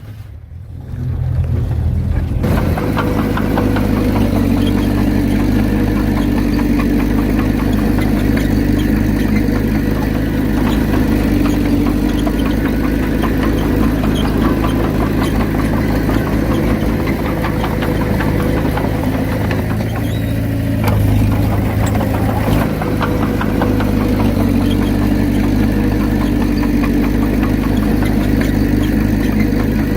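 Heavy earthmoving machine's diesel engine running steadily. It comes in abruptly about two seconds in, and its tone shifts briefly around twenty seconds in.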